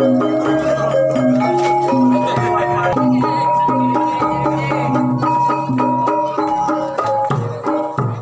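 Javanese gamelan music: struck metallophones play a quick, steady run of melodic notes over a sustained low tone, with drum strokes, pausing briefly near the end.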